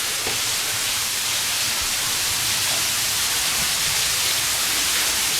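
Waterfall inside a cave: a steady rush of falling water.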